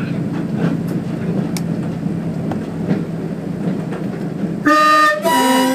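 Railbus running along the track, its diesel engine and wheels making a steady noise, then near the end its horn sounds two loud blasts, the second a little lower in pitch than the first.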